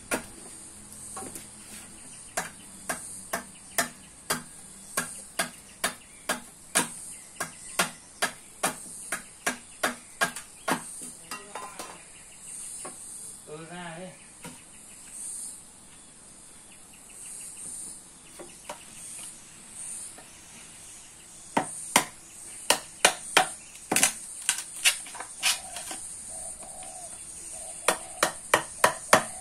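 Repeated sharp knocks, about two a second, that stop for several seconds midway and then resume, over a steady high hiss.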